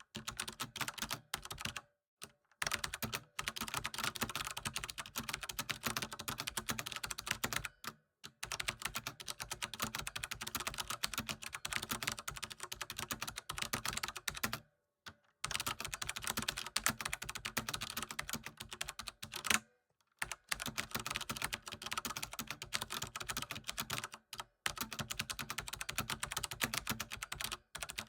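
Computer keyboard typing: fast, continuous key clicks in runs, with brief pauses about every few seconds.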